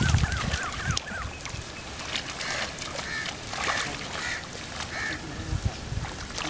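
A bird calling in a quick run of short repeated notes during the first second, then a few more calls further on, over water sloshing and splashing as a seine net is dragged through shallow muddy water.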